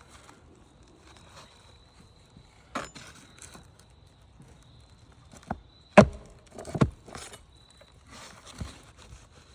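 A series of sharp knocks and clicks from a hand tool, such as a hammer or flat bar, working nails out of asphalt roof shingles. The loudest knock comes about six seconds in, followed by a couple more just after.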